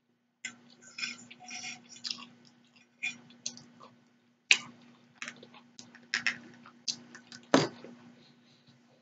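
Close-miked eating sounds: a person chewing, with a string of short sharp mouth clicks and smacks, the loudest about four and a half and seven and a half seconds in. A faint steady hum runs underneath.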